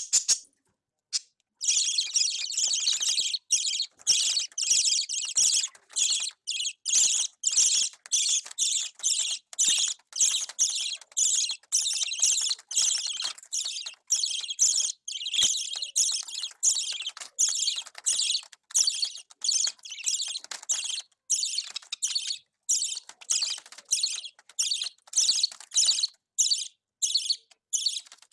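Budgerigar chick calling over and over, harsh high-pitched rasping calls at about two a second with short breaks.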